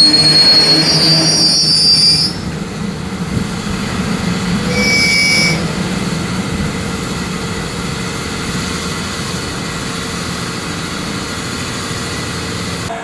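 Double-headed EF64 oil freight train rolling slowly, its wheels squealing on the rails. Sliding high squeals come in the first two seconds and a shorter squeal about five seconds in, as the train slows for its stop. A steady rumble and hiss runs underneath.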